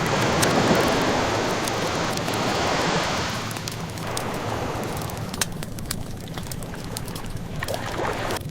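Ocean waves washing ashore, one wave swelling over the first few seconds and then receding, with scattered small pops and crackles of a wood fire on top.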